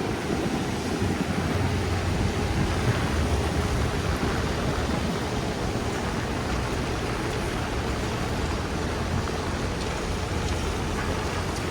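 Steady rain falling on a city street, with a constant low rumble of traffic underneath.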